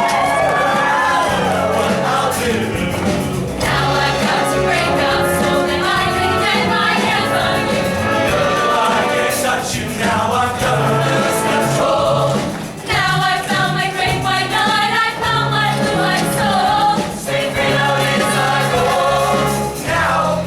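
A vocal group singing in chorus over instrumental accompaniment with a steady bass line.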